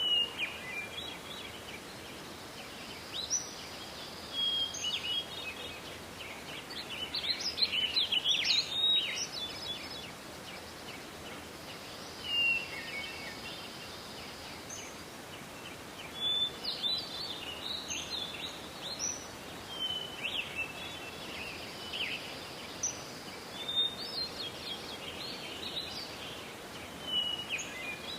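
Songbirds singing short phrases of chirps and trills that recur every few seconds, over a steady hiss of forest background noise.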